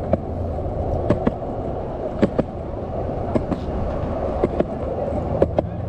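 Plastic 27-inch Nickel cruiser skateboard rolling on pavement. Its wheels give a steady rumble, with a pair of quick clicks about once a second as the front and rear wheels cross seams in the path.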